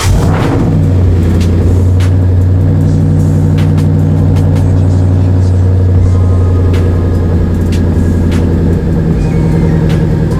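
Car engine running at a steady idle just after being started, a loud, even low hum that shifts slightly in tone about nine seconds in.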